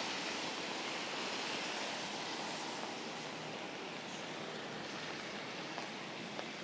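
Steady hiss of rain falling on a city street, easing slightly over a few seconds.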